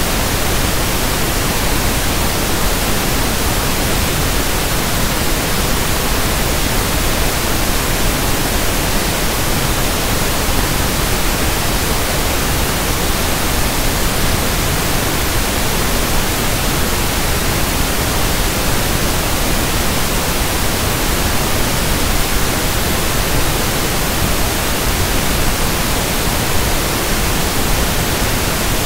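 Synthesized pink noise (1/f noise): a steady, even hiss across the whole range with nothing changing.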